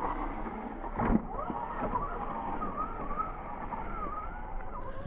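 Electric RC car motor whining, its pitch rising and falling with the throttle, with a sharp knock about a second in.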